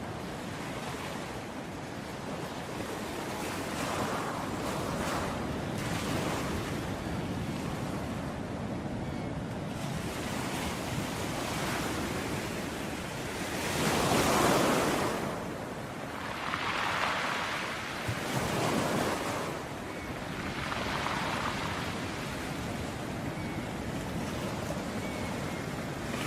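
Ocean waves breaking on a shore: a continuous wash of surf with several waves swelling and falling away, the loudest about halfway through.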